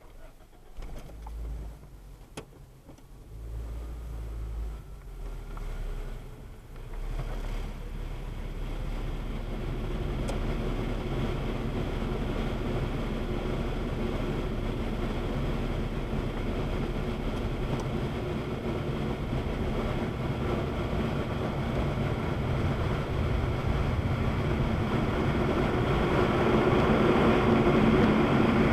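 Automatic car wash machinery running, heard from inside the car: a motor winds up at the start, then a steady rushing noise with a low hum grows gradually louder.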